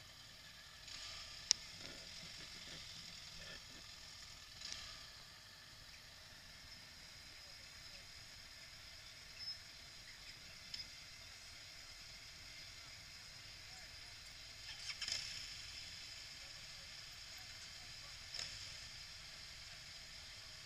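Steady hiss of wind and road noise picked up while riding a motorcycle, with one sharp click about a second and a half in and a few brief louder rushes of wind.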